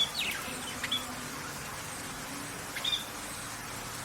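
A bird giving about four short, high chirps, some sweeping downward, over a steady background hiss.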